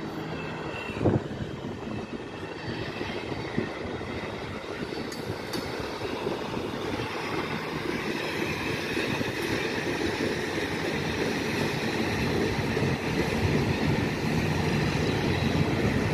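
Train cars rolling past at close range: steel wheels clatter on the rails, with one sharp clank about a second in. The hum of the trailing F7 diesel locomotive's engine grows louder toward the end as it approaches.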